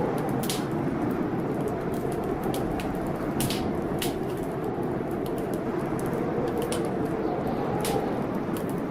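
Wood fire crackling in a fireplace, with irregular sharp pops and snaps. Behind it, a storm makes a steady rushing noise.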